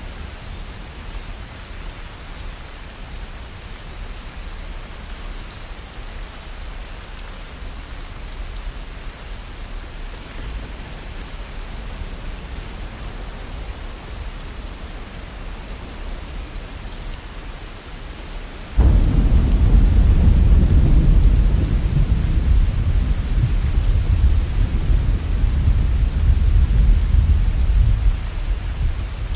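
Heavy rain falling steadily in an even hiss. About two-thirds of the way through, thunder breaks in suddenly with a loud, deep rumble that rolls on for around nine seconds before easing.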